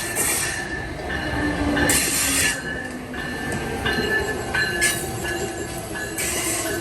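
Train rolling on the rails with steady high-pitched wheel squeal, several squealing tones held through, and short bursts of hiss about two, five and six seconds in over a low rumble.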